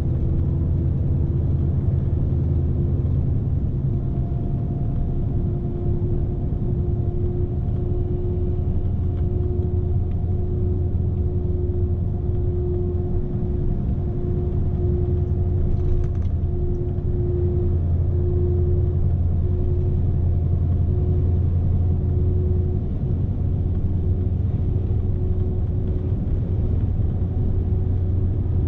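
A Scania S520 truck's V8 engine running steadily with road rumble, heard from inside the cab, with a steady hum held over it.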